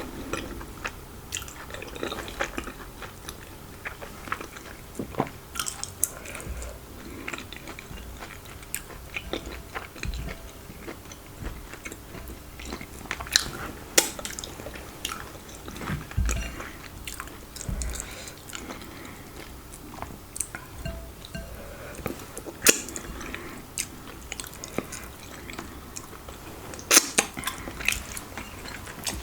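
Close-up chewing and mouth sounds of a person eating fufu and meat in soup: wet smacks and clicks at irregular intervals.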